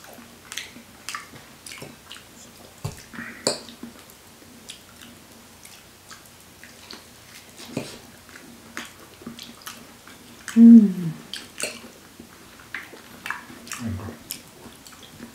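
Wet chewing and mouth sounds of people eating soft durian flesh, with scattered sharp clicks and taps of forks on plates. A short voice sound falling in pitch, the loudest thing, comes about ten and a half seconds in.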